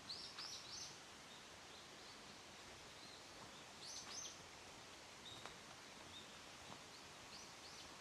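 A small songbird calling in short, high notes: three in quick succession at the start, two more about four seconds in, and a few fainter ones later. Beneath the calls is a faint, steady hiss of a small creek flowing.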